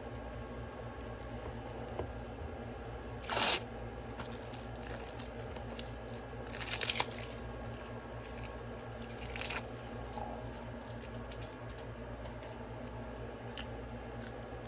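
Plastic wrapper of a Slim Jim meat stick being torn and crinkled in a few short bursts: the loudest comes about three and a half seconds in, another just before seven seconds, and a smaller one near nine and a half, over a steady low hum.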